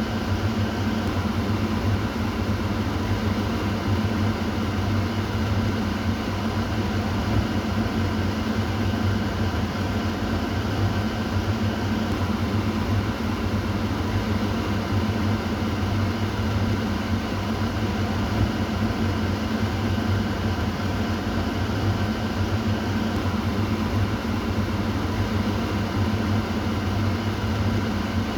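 Kitchen exhaust fan running steadily: a continuous whooshing hum with a low drone and a fainter upper hum, unchanging throughout.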